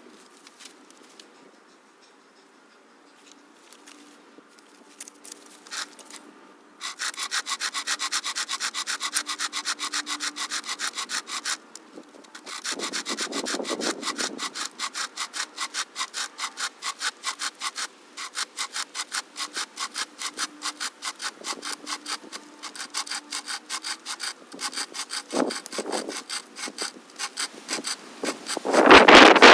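SOG pocket chainsaw, a toothed chain pulled back and forth by hand, sawing through a log in fast, even rasping strokes. It starts a few seconds in after a quiet spell, stops briefly a little past halfway, then carries on. A louder rush of noise comes right at the end.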